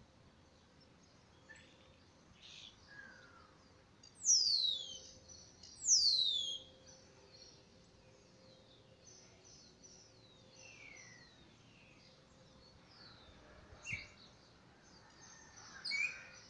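Birds calling: two loud, quickly falling whistled calls about four and six seconds in, with fainter chirps scattered throughout and a short sharp click near the end.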